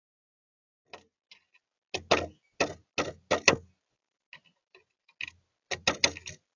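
A series of sharp taps and knocks, irregular and bunched into two clusters, the loudest near the middle, with silence between them.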